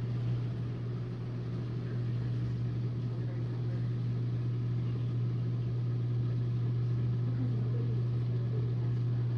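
Whirlpool dishwasher running mid-cycle: a steady, even low hum from its motor over a constant wash noise.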